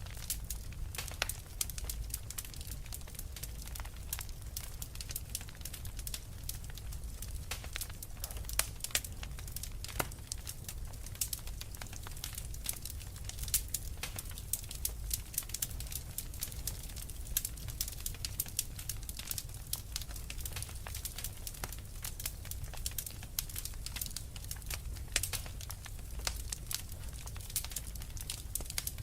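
Wood fire crackling, with frequent small sharp pops and snaps over a steady low rumble.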